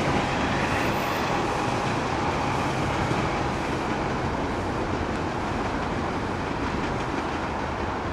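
Metro-North electric multiple-unit commuter train running away down the tracks, a steady rumble of wheels on rails slowly fading.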